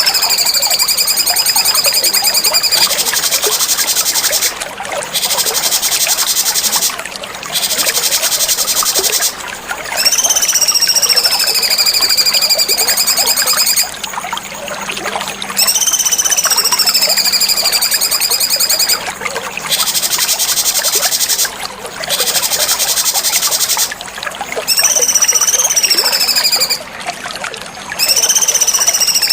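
Cucak cungkok songbird singing: high whistled notes that slide downward, alternating with rapid, high buzzing trills, in repeated phrases a few seconds long separated by short pauses.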